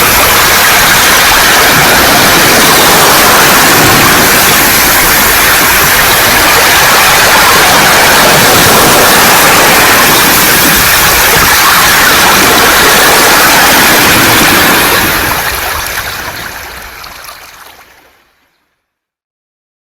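Waves washing over a beach of smooth round pebbles, a loud steady rushing hiss of surf and tumbling stones. It fades out over the last few seconds into silence.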